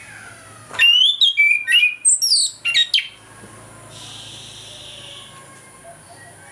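Orange-headed thrush (anis kembang) singing one loud, varied phrase of quick whistled notes sweeping up and down, starting about a second in and lasting about two seconds.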